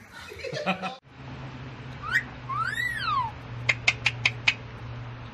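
Pet parrot sounds: a short voice-like call, then a whistle that rises and falls, followed by five quick sharp clicks, over a steady low hum.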